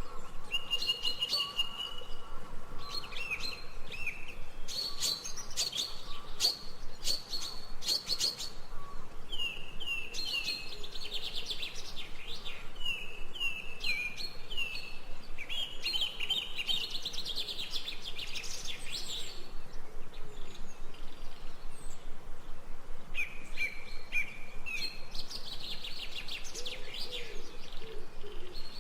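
Small garden birds chirping and singing: a busy run of short chirps and quick down-slurred notes, often repeated in series, with brief pauses between phrases.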